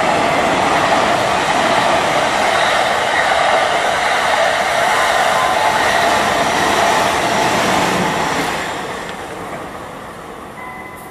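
JR East E001 series TRAIN SUITE Shiki-shima passing through the station at speed, its wheels rumbling loudly on the rails, mixed with a Keihin-Tohoku Line E233 commuter train arriving alongside. The noise dies away about nine seconds in as the train clears.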